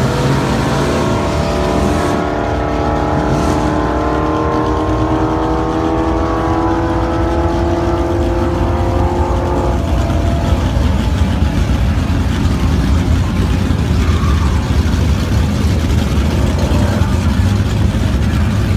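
Many car engines idling and rumbling together in drag-strip staging lanes. For about the first ten seconds one engine's note rises slowly and steadily, then cuts off.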